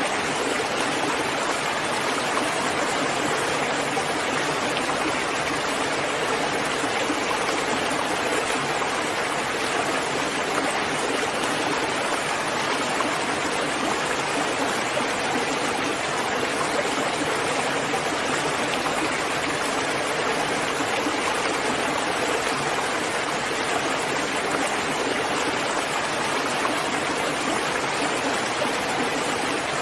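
Steady rain falling, a dense even hiss without separate drops standing out and without change in level.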